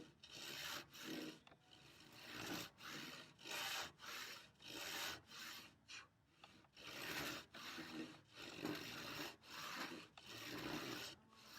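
Hand saw cutting across a thick wooden workbench leg in steady back-and-forth strokes, about two rasping strokes a second.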